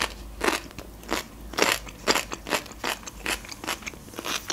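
A person chewing food close to the microphone: a run of short crunchy, crackly mouth clicks, about two to three a second.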